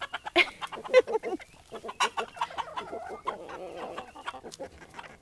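A flock of chickens clucking busily, many short overlapping calls, as the birds crowd along while being herded to their coop.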